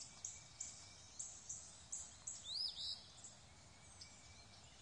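Faint birdsong from a wood: a series of short high notes about three a second, then a brief looping, sliding phrase.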